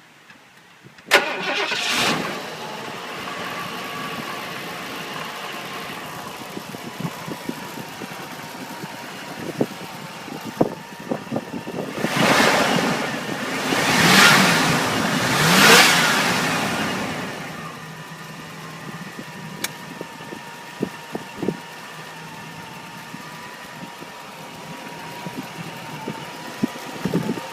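Ford 7.5-litre gasoline V8 starting about a second in and settling to idle. It is revved three times in a row about halfway through, then returns to a steady idle.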